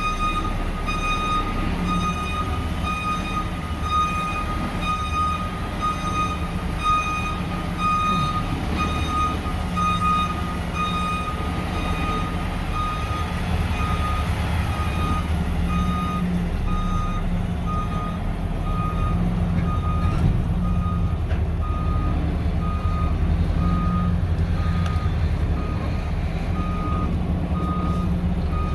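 Mack snowplow truck's diesel engine running steadily, with an electronic beeper sounding one evenly repeated beep, a little more than once a second.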